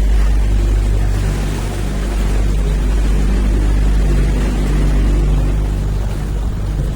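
Canal tour boat's engine running steadily, a low hum.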